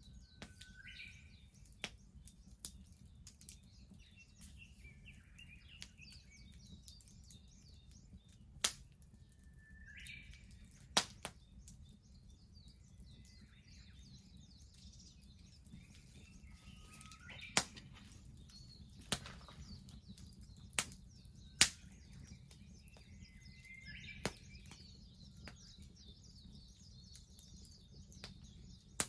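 Wood bonfire crackling, with single sharp pops every few seconds, the loudest about two-thirds of the way in. Birds chirp and call throughout, more densely near the end.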